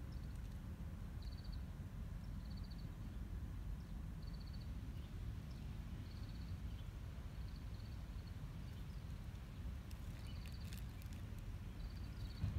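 Outdoor ambience: a small bird repeats short, high, rapid trills about once a second over a steady low rumble, with a few faint clicks about ten seconds in.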